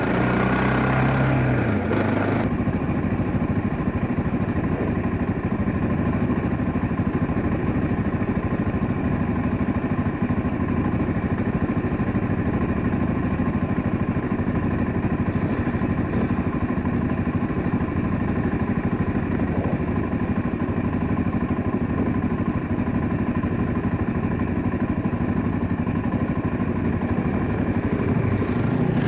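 Dirt bike engine running steadily while riding, with mechanical clatter mixed in.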